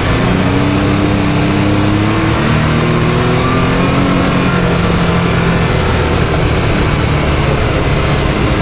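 Can-Am Maverick X3 side-by-side's turbocharged three-cylinder engine running under throttle on a trail, over a steady rushing noise. Its pitch climbs over the first two or three seconds, then eases off and holds.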